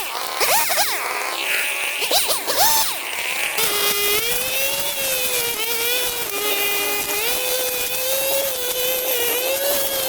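A small motor or engine runs with a steady buzz whose pitch wavers slightly. It comes in after a few seconds of quick rising and falling sweeps.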